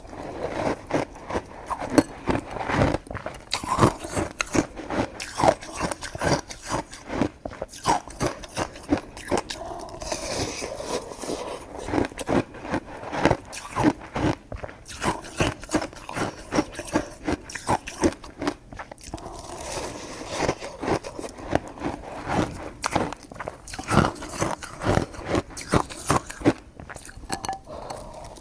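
A person chewing and biting coconut sticky rice cake, with many short clicking mouth sounds, several a second.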